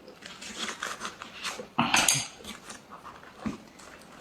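Close-up eating sounds of a leaf-wrapped rice parcel: crackling and rustling of fresh leaves, with one loud crunch about two seconds in.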